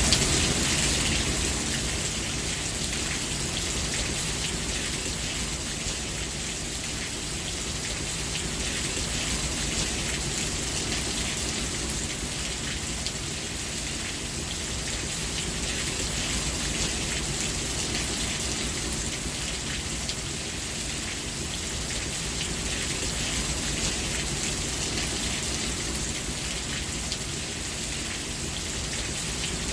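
Steady rain falling, an even hiss of drops on surfaces, easing slightly in level over the first couple of seconds.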